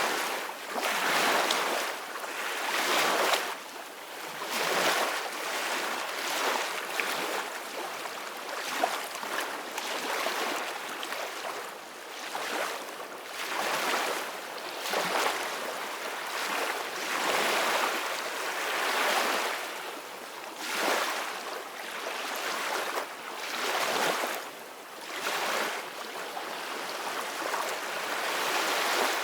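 Sea waves splashing and washing, swelling and easing every second or two in a steady hiss with little deep rumble.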